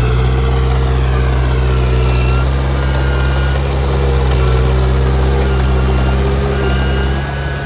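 Heavy diesel engine of earthmoving machinery running steadily, with a faint high whine over it that falls in pitch during the first couple of seconds.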